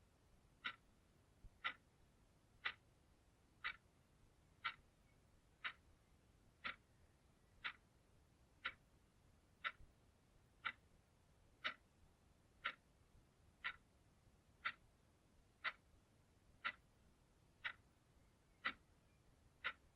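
Clock ticking steadily, one sharp tick a second, evenly spaced.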